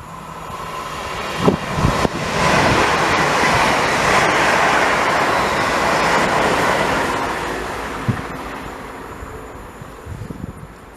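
A train passing through a station: its rushing noise rises sharply about two seconds in, holds for several seconds, then fades away.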